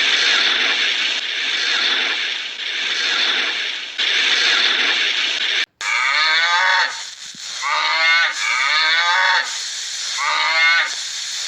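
Cattle mooing. First comes a long, breathy, hissing bellow, then after an abrupt cut a run of several shorter pitched moos that bend in pitch.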